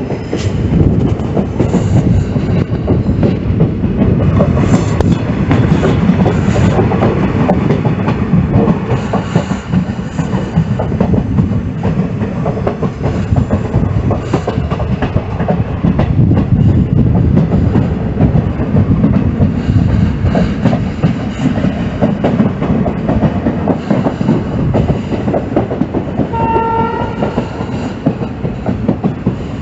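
Train running on rails: a steady loud rumble with dense wheel-on-rail clatter. A short single-tone locomotive horn blast sounds near the end.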